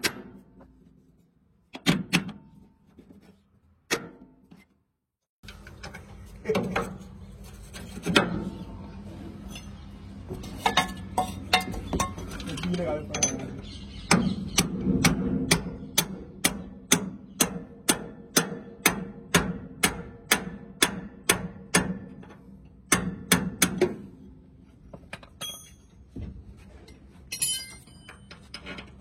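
Metalwork on a truck's leaf spring: a run of sharp, evenly spaced metal knocks, about two a second, over a low steady hum, with scattered tool clatter before and after.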